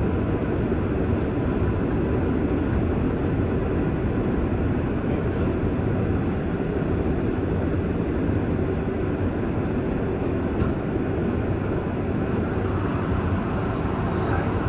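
R188 7 subway train running, a steady rumble of wheels and traction motors with a faint steady whine.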